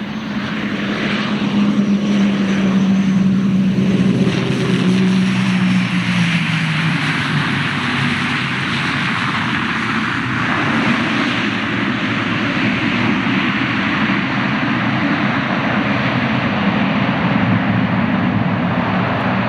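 Airliner engines passing close by, loud, building over the first couple of seconds. A strong droning hum drops in pitch as the aircraft goes past, then a steady rush of engine noise continues.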